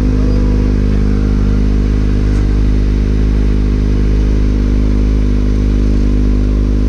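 Motorcycle engine running steadily at an even pitch, as when cruising at constant speed.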